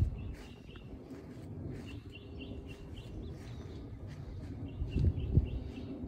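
A small songbird repeating quick high chirps in runs, about five a second, over a steady low rumble; two dull low bumps near the end are the loudest sounds.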